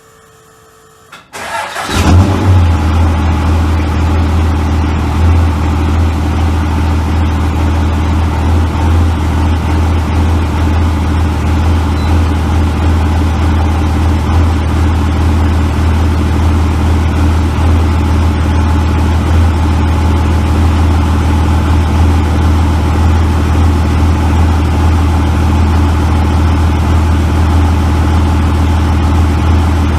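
Second-generation Cummins 24-valve 5.9 L inline-six diesel, fitted with 84 mm injector lines and 93 mm delivery tubes, cranking briefly and firing up about two seconds in. It then settles into a steady idle.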